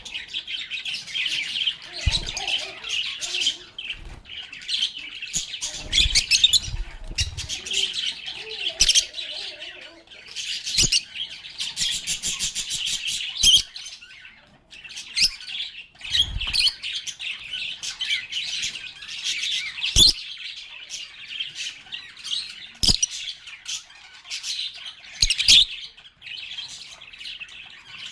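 A flock of pet lovebirds chirping and chattering continuously in high, rapid calls, with a few short low thumps in between.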